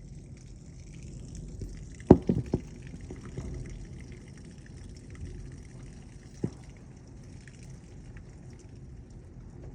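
Thunderstorm rain falling steadily on the house and window, a continuous hiss. A few sharp knocks come about two seconds in, and one more past six seconds.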